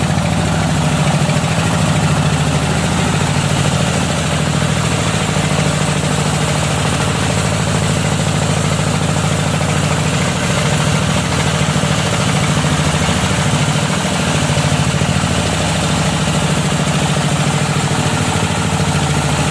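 Home-assembled electric drilling machine running steadily with a loud, even drone and a slight pulsing.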